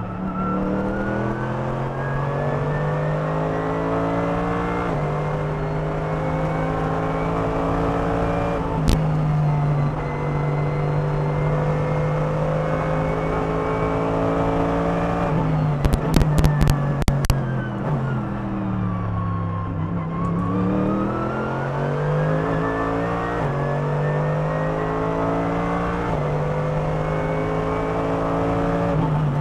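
Mercedes-AMG GT3's 6.2-litre naturally aspirated V8 heard onboard under hard acceleration: the revs climb and drop through two upshifts near the start and then hold high. Just past the middle the revs fall away through downshifts under braking, with a cluster of sharp cracks, and they climb again through more upshifts near the end.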